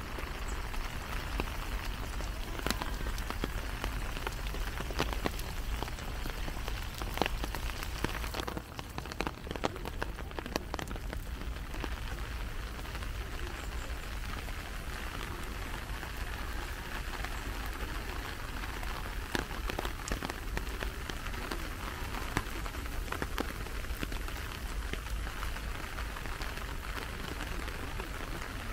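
Steady rain falling, with many scattered sharp taps of individual drops throughout.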